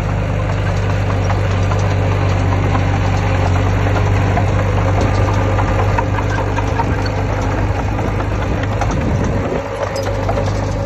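Heavy diesel engine of a bulldozer or dump truck running steadily with a low hum and rattling, easing briefly near the end.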